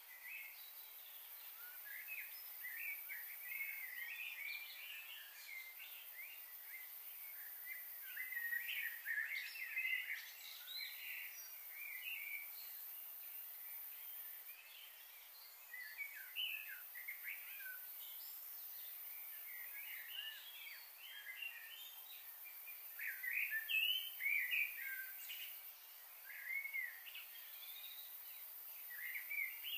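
Many birds chirping and calling in quick, overlapping bursts, with a steady high-pitched hiss behind them.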